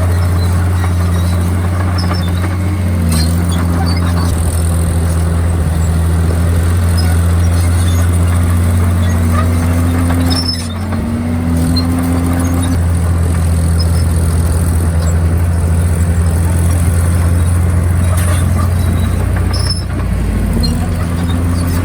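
Komatsu D51PX crawler bulldozer running at working load: a steady low diesel drone, with a higher squealing tone above it that wavers up and down. The level dips briefly about halfway through.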